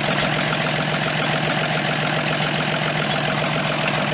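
Tractor engine idling steadily with an even, regular hum.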